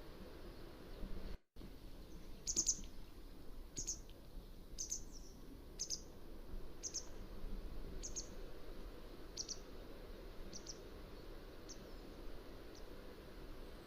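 Mountain wagtail calling: a string of short, sharp, high calls about one a second, growing fainter toward the end, over a steady background hiss. A brief gap cuts the sound out about a second and a half in.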